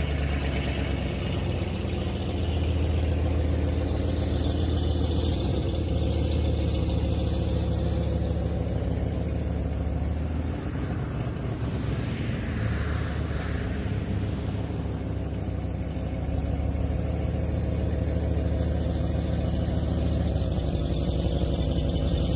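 Truck engine running steadily, its note shifting briefly about halfway through.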